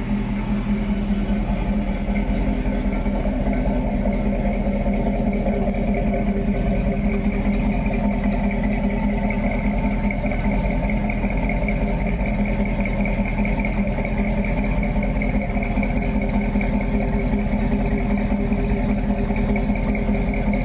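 The 350 small-block Chevy V8 of a 1932 Ford Highboy roadster idling steadily, heard at its quad chrome exhaust tips.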